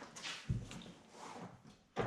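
Irregular clunks and scraping of heavy metal parts as an engine is worked loose in a car's engine bay, with a heavy thud about half a second in.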